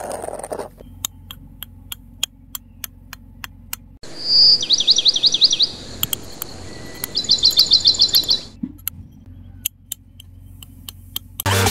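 A small bird chirping in two quick trills of rapid, high, falling notes. A string of sharp clicks, about three a second, comes before them and a few more after.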